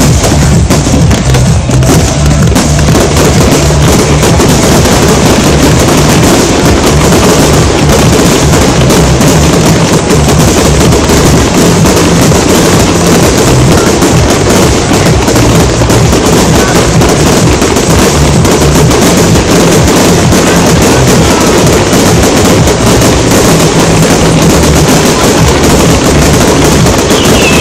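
Fireworks display: a continuous, very loud barrage of shells bursting and crackling without a pause, with music playing underneath.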